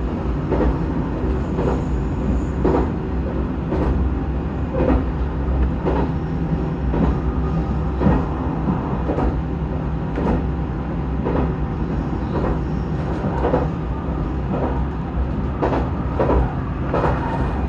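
Inside a JR Shikoku 2000 series tilting diesel railcar under way: a steady low rumble of engine and running gear, with a click roughly once a second as the wheels pass over rail joints.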